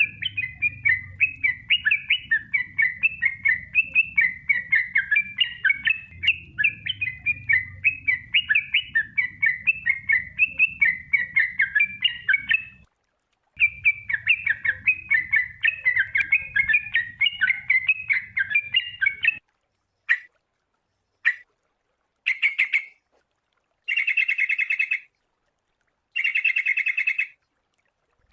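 Sooty-headed bulbul (kutilang) singing a fast run of chirping phrases that breaks off briefly about 13 s in, resumes, and stops about 19 s in. It is followed by a few single chirps and two longer, harsher buzzy calls near the end. A faint low hum lies under the first part.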